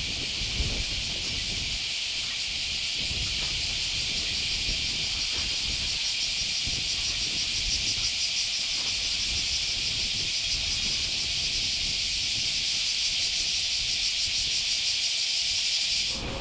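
Cicadas buzzing in a dense, steady, high-pitched chorus with a fast pulsing shimmer, over a low rumble of wind on the microphone. The chorus cuts off suddenly near the end.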